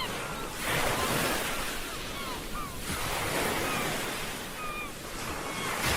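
Ocean waves washing in, swelling in surges about every three seconds, with short high gliding calls scattered over the surf.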